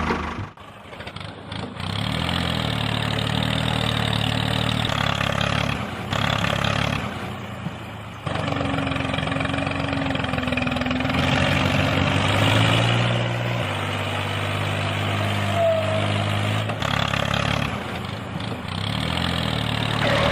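Mini tractor engine running steadily, its pitch shifting in steps several times as the sound cuts between takes.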